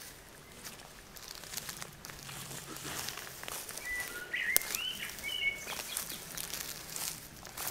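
A songbird sings a short phrase of whistled, gliding notes about four seconds in, over scattered clicks and rustles close by.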